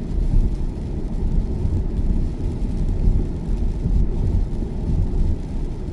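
Steady low rumble of road and tyre noise inside the cabin of an electric Tesla cruising at motorway speed, with no engine note.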